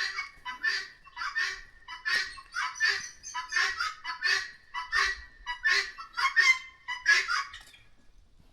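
A bird calling over and over in a rapid series of short, loud calls, about three a second, that stops shortly before the end.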